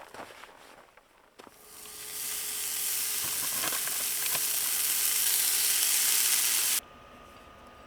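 Food sizzling in a hot frying pan: a steady hiss that swells in about a second and a half in, with small crackles in it, and cuts off abruptly near the end. A few faint knocks come before it.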